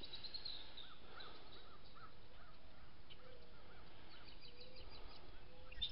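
A bird calling in the background, a run of short, clipped notes about three a second that stops about three and a half seconds in, over a steady low hiss.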